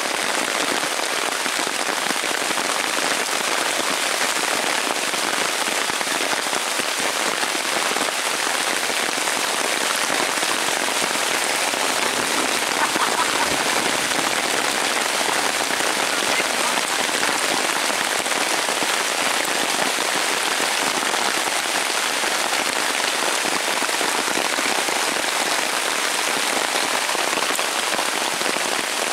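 Heavy rain falling steadily on a tarp overhead and on the surrounding forest, a dense, even patter.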